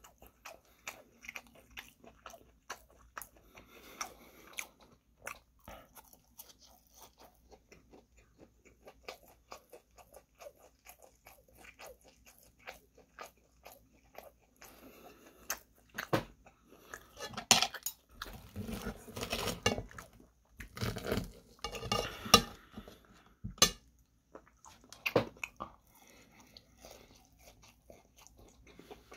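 Chewing crispy panko-breaded chicken katsu: a run of crunching crackles, louder and busier for a few seconds past the middle.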